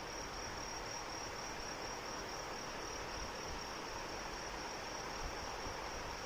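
Steady rain falling, with a cricket-like insect chirping over it in a high, evenly pulsing trill that keeps on without a break.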